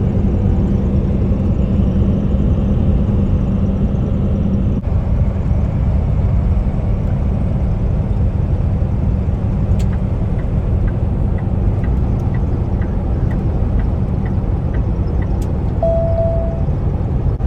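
Steady road noise inside a Kenworth T680 semi truck's cab at highway speed: engine drone and tyre rumble, with a low hum over the first few seconds and a run of faint, even ticks in the second half.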